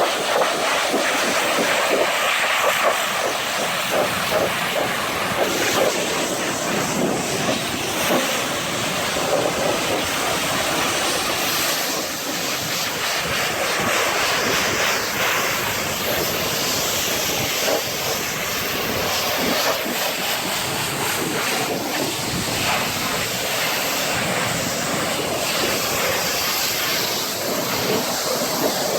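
Pressure washer wand spraying a high-pressure jet of water onto a truck, a steady loud hiss and splash as the foam and road film are rinsed off.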